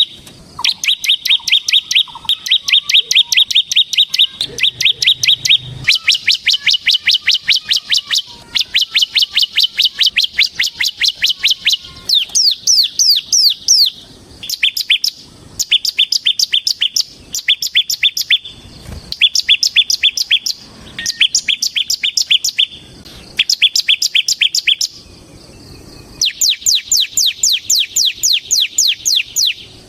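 Bar-winged prinia (ciblek) singing in the rapid 'ngebren' style: fast runs of sharp, high, downward-sweeping chirps, about seven a second, in phrases of one to several seconds broken by short pauses.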